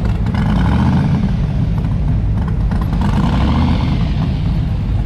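Car engines rumbling as cars idle and roll slowly past, a loud steady low rumble.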